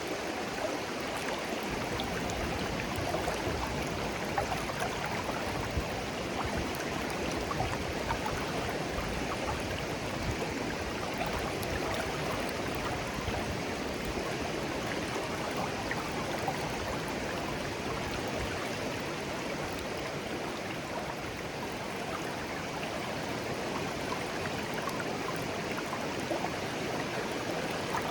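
A shallow stream babbling and gurgling steadily over stones, with small splashes and trickles.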